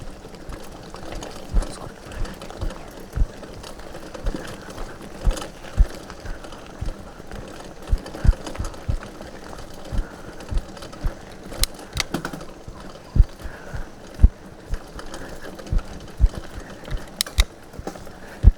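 Irregular low thumps and knocks, about one or two a second, with a few sharp clicks, over a steady background noise.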